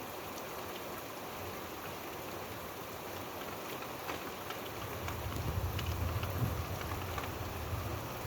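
Steady rainfall with individual drops ticking on a surface. About halfway through, a low rumble of distant thunder swells in and eases off near the end.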